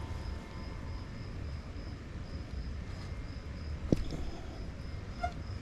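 Outdoor background of a steady low rumble with an insect trilling high and on and off, and one sharp click about four seconds in.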